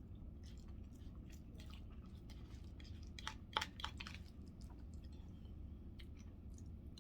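A person chewing a mouthful of chicken burrito bowl, with scattered soft mouth clicks and a few sharper clicks about three and a half seconds in, over a faint low steady hum.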